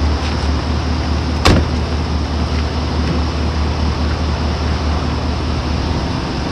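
A vehicle engine running steadily with a low rumble, and one sharp knock about a second and a half in.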